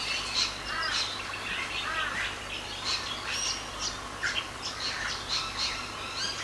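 Many wild birds calling at once: a busy mix of short chirps and squawks, overlapping without pause.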